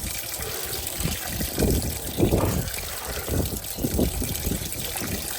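Electrolux Turbo Capacidade Premium 15 kg top-loading washing machine filling with water, the inflow splashing and gushing unevenly into the tub.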